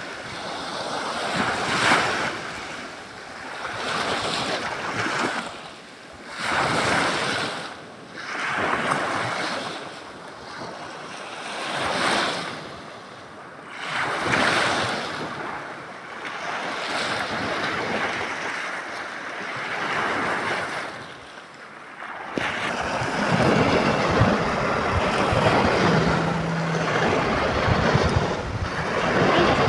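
Waves washing onto a shore, each surge swelling and fading every two to three seconds. About 22 seconds in the sound changes abruptly to a steadier, louder rush with a low rumble, with wind buffeting the microphone.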